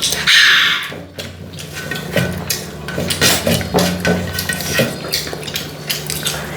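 Plates and utensils clinking and scraping during a meal, with a brief loud rustling or splashing noise about half a second in.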